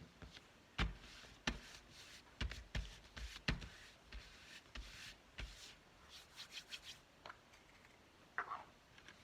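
Paper scraps being handled, rubbed down with a glue stick and pressed onto a journal page, with a string of light knocks and taps on the work surface. A brief squeaky sound comes near the end.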